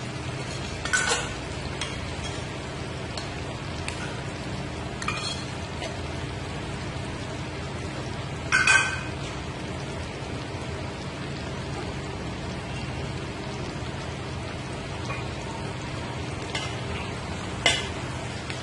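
Minced beef, tomatoes and green chillies sizzling steadily in oil on a flat iron tawa over high heat. A few sharp clinks of a metal spoon against the tawa, the loudest about nine seconds in.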